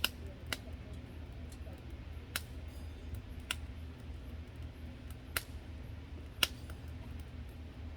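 A few sharp, isolated light clicks or taps, about six in all, spread irregularly over a steady low hum.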